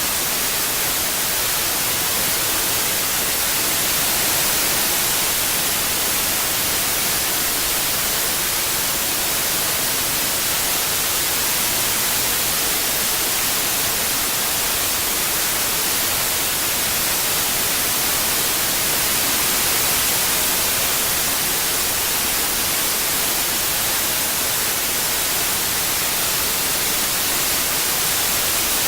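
Steady synthetic white noise: an even, unbroken hiss, strongest in the highs, with only slight swells in loudness.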